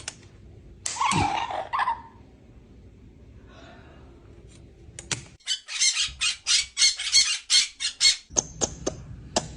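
A parrot calling: one harsh squawk about a second in, then, after a pause, a quick run of short, raspy calls, about five a second, for around three seconds.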